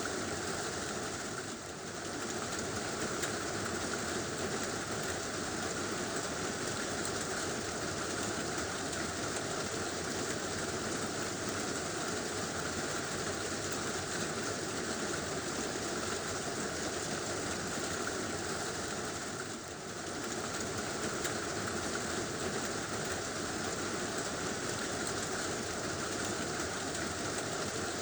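Heavy rain drumming steadily on a tin roof, a dense, even patter that dips briefly twice.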